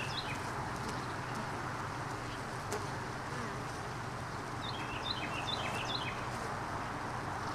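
A small bird singing a short phrase of quick chirps, once at the very start and again about five seconds in, over a steady hiss and a low hum.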